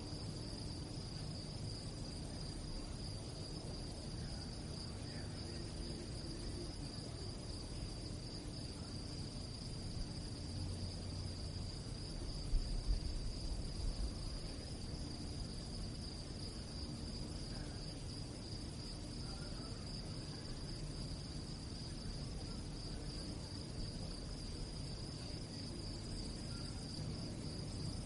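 Crickets chirping at night in a steady, continuous high trill. A low rumble lies underneath, with a brief louder low thump about halfway through.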